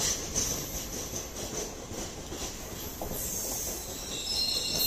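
Passenger train coaches of the Coimbatore Express rolling slowly past, their wheels clicking over rail joints at the start, then a steady rumble. A high-pitched wheel squeal sets in near the end.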